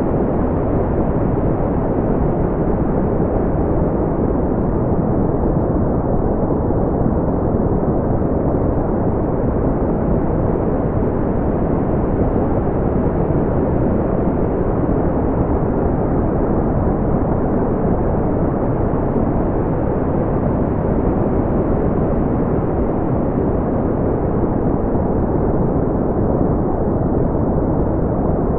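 Smoothed brown noise: a steady, deep rushing hiss weighted to the low end, with nothing above the upper midrange and no changes in level.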